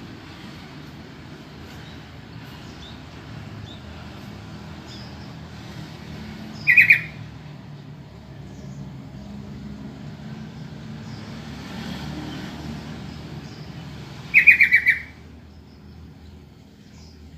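Sooty-headed bulbul (trucukan) calling twice, each a short burst of quick repeated notes, once about seven seconds in and again near the end, over a steady low background rumble.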